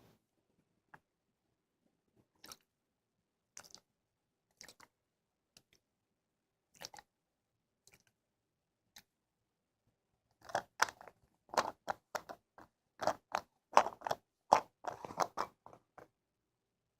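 Ear-cleaning ASMR scratching: crackly, crunchy scraping sounds. There are a few scattered crackles at first, then a dense run of louder crackling starting about ten seconds in.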